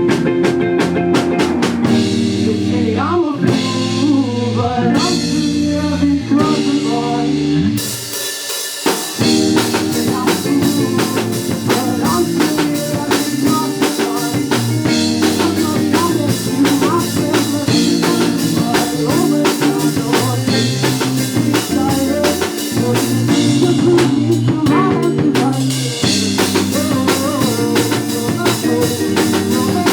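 Live rock band playing: drum kit with snare and bass drum keeping a steady beat, bass and electric guitar, and a voice singing over it. The band drops out briefly about eight seconds in, then comes back in.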